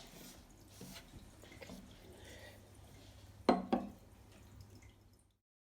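Faint handling noises with two sharp knocks close together about three and a half seconds in, each with a brief ringing tail. The sound cuts off near the end.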